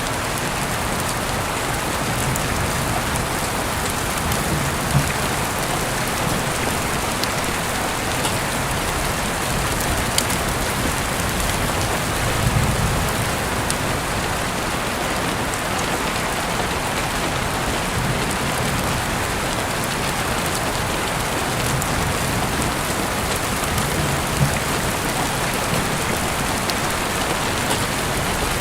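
Heavy rain falling steadily, with a few sharp single drop ticks and a brief low rumble about halfway through.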